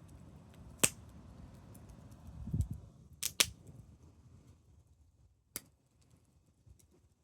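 Wood fire crackling: sharp pops, the loudest a pair about three seconds in, among faint ticks, over a low rumble that dies away about halfway through.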